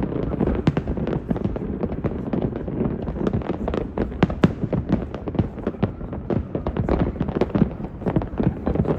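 Aerial fireworks going off in rapid succession: a dense run of sharp pops and crackles, several a second, over a low rumble of distant bangs.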